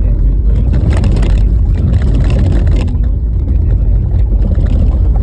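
Car driving on a rough, snow-covered road: a steady low rumble of tyres and road noise, with a louder hiss from about half a second to three seconds in.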